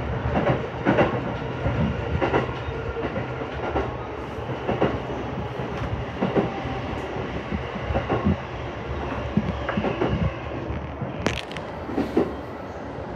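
Keihin-Tohoku Line commuter train running, heard from inside the car: a steady low rumble with irregular clatter and knocks from the wheels on the track, and a sharper rattle about 11 seconds in.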